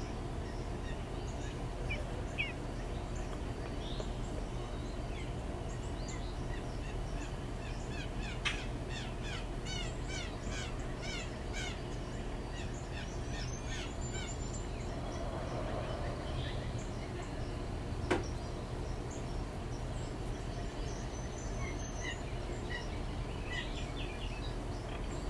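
Backyard songbirds chirping, with one bird giving a quick run of about a dozen repeated chirps about a third of the way in. A single sharp click comes about two-thirds of the way through, over a steady low hum.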